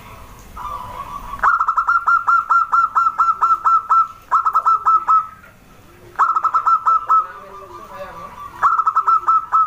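Zebra doves (perkutut) calling: four bursts of rapid, sharp repeated notes, about five a second, with softer lower coos in the gaps between them.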